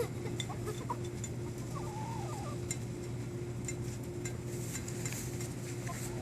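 Hens giving a few short, soft wavering calls, about two seconds in and again near the end, with faint scattered clicks of beaks pecking at a cracked egg on the ground, over a steady low hum.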